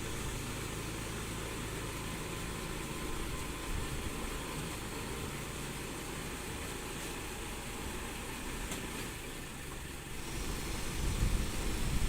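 Engine of heavy construction machinery running steadily at idle; near the end its low rumble grows louder.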